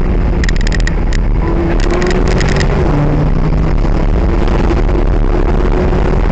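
McLaren 570S's twin-turbocharged 3.8-litre V8 heard from inside the cabin under acceleration, its pitch rising and then dropping at a gear change about three seconds in, over steady road and wind noise.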